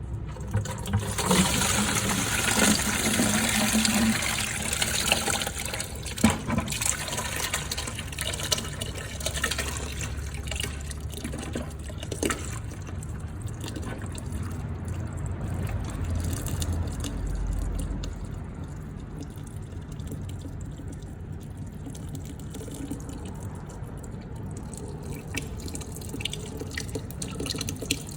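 Water and old gear oil pouring out of the drained transmission of a 1944 Farmall H, stronger for the first few seconds and then easing to a quieter, steady flow. The gearbox is full of water, the sign of long water contamination of the gear oil.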